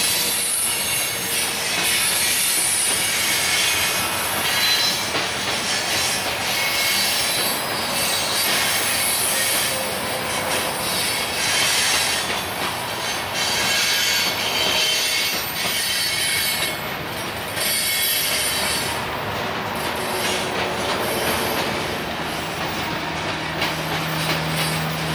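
Freight train of loaded covered hopper cars rolling past: steady wheel-on-rail rumble and rattle with a high, thin squeal of wheel flanges on the curve. A low steady drone comes in near the end.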